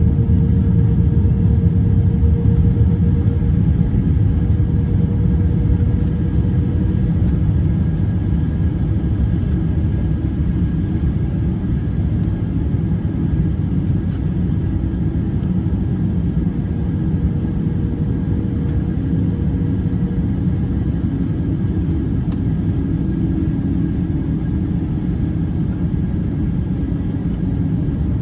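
Cabin noise inside an Airbus A350-900 under way: a loud, steady rumble of the Rolls-Royce Trent XWB engines and airflow, with faint steady whining tones above it that ease slightly over the span.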